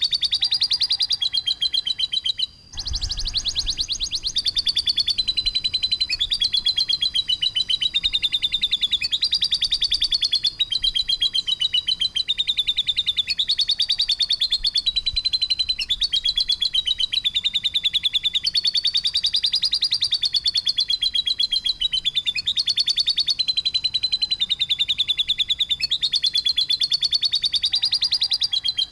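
Songbird masteran of rough 'tembakan' calls: a continuous, very fast trill of sharp repeated notes, its pitch wavering up and down. There is a brief break about two and a half seconds in.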